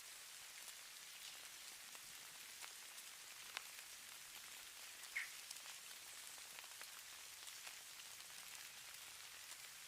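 Falling snow: a faint, steady high hiss with scattered light ticks of flakes striking surfaces, and two sharper ticks about three and a half and five seconds in.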